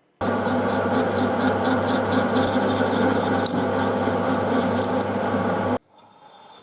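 Electric power tool abrading rusty metal: a steady motor hum under a rasping, scraping sound, cutting in abruptly and stopping suddenly near the end.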